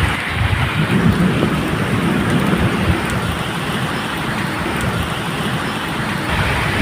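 Steady medium rain, with thunder rolling low underneath, strongest in the first few seconds.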